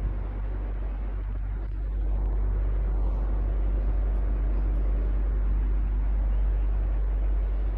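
Electric fan running steadily: a deep, constant hum under an even whooshing noise of moving air, growing slightly louder about two seconds in.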